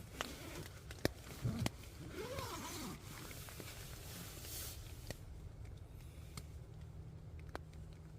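Movement inside a tent: a rasping, zip-like sound from about one and a half to three seconds in, with scattered sharp taps throughout over a steady low background.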